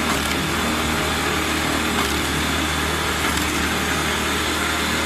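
Engine of a homemade firewood machine running steadily at constant speed.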